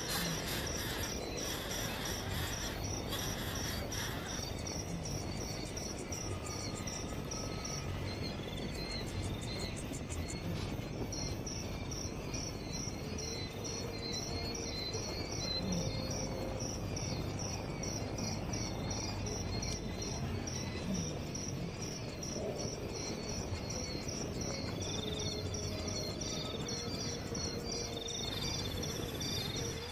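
Insects chirring in a steady, evenly pulsed trill, with a few short bird whistles scattered through it over a background hiss.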